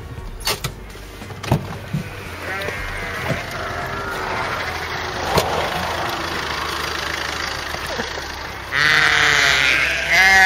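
Sheep bleating, with a long loud bleat starting near the end. A few sharp clicks or knocks come in the first couple of seconds.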